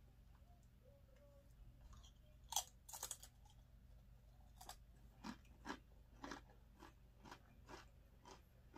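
A tortilla chip bitten with a sharp crunch about two and a half seconds in, then chewed with short crunches about twice a second.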